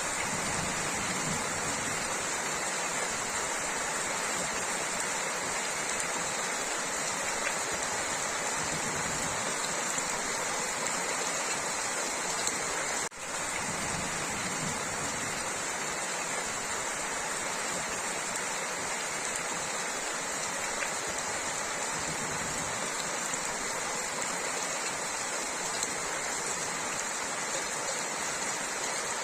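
Heavy rain falling steadily, with a momentary break about halfway through.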